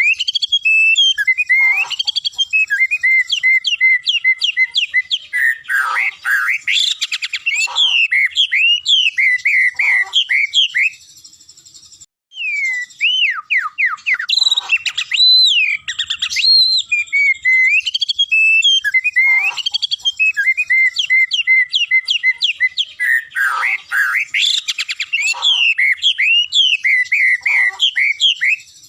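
White-rumped shama singing a long, varied song of rapid whistles, slurred notes and trills, with a short break about eleven seconds in before the song resumes.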